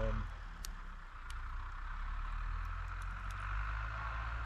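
Tractors working a field at night, heard from a distance as a steady low engine drone, with a few faint sharp clicks.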